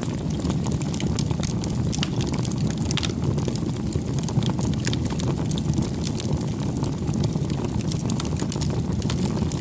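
Wood fire burning, a steady low rush of flame with frequent small crackles and pops scattered throughout.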